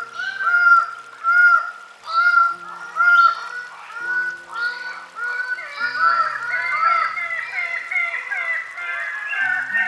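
Greater birds of paradise calling: a rapid series of loud, arching call notes, with more birds overlapping densely from about six seconds in. Soft background music with low held notes plays underneath.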